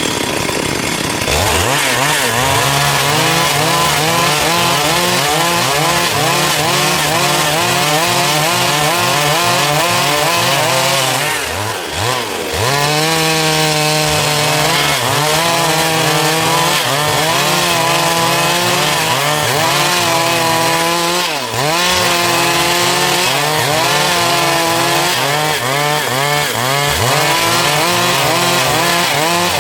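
Stihl MS 382 two-stroke chainsaw cutting through a dry log at high revs, its engine note wavering under load. Twice the pitch drops briefly and then climbs back up as the saw eases off and digs in again.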